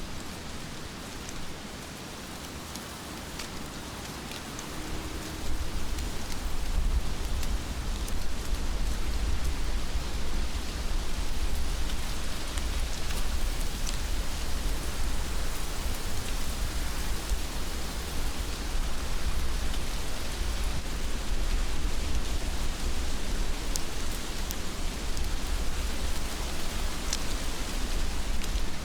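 Heavy rain falling steadily, with scattered sharper drop hits. About five seconds in it grows louder, with a deep low rumble underneath.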